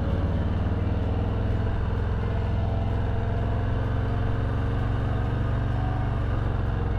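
Harley-Davidson Milwaukee-Eight 114 V-twin with a Screaming Eagle Stage 2 exhaust, running at a steady cruise under way. A deep, even exhaust rumble heard from the rider's seat.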